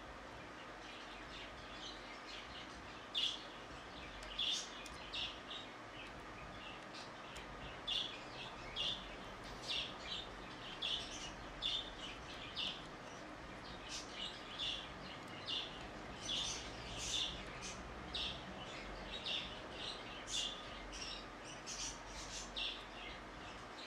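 Birds chirping: short, high chirps repeating irregularly, about one or two a second, over a steady low background hum.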